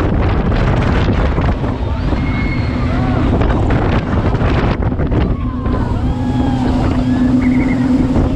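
Twin Chevrolet big-block V8 engines of a 32-foot aluminium jet boat running underway, a steady engine drone under heavy wind buffeting on the microphone.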